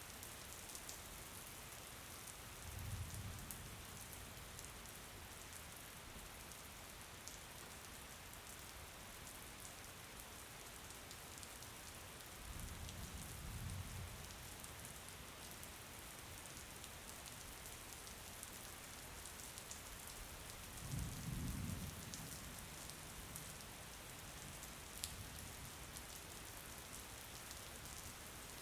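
Steady rain falling, an even hiss with fine scattered drip ticks. Three short low rumbles rise out of it, about three, thirteen and twenty-one seconds in.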